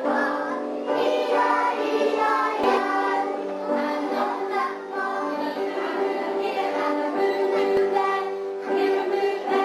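A group of voices singing a song together, a choir, with sustained sung notes.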